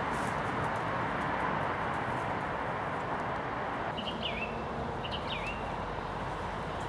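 Steady broad hiss of background noise with two short bird calls, each a quick note that dips and swoops back up, about four and five seconds in.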